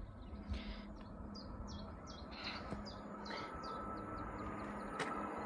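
A small bird singing a run of short, quick, falling chirps, over a faint steady hum that slowly grows louder as a distant train approaches. One sharp click near the end.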